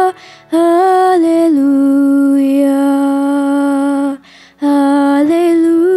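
Chorus singing slow, held notes of a 'hallelujah' refrain as one melody line, dropping in pitch about a second and a half in and rising again near the end. The singing breaks off briefly twice, right at the start and about four seconds in.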